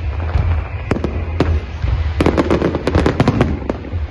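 Fireworks display with aerial shells bursting in sharp bangs, a few at first and then a quick run of a dozen or so cracks in the second half, over a steady low rumble.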